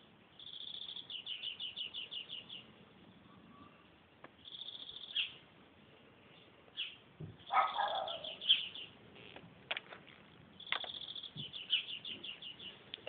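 A small bird singing in several bouts of high, quickly repeated chirps, about five a second. There is a louder, lower-pitched sound about seven and a half seconds in, and a few sharp clicks.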